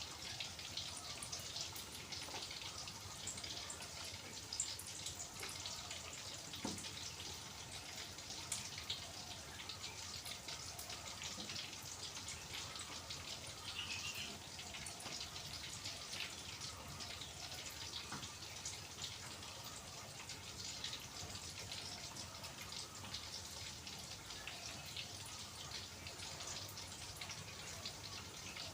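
Food frying in hot oil in a pan: a steady crackle of many small pops and spits.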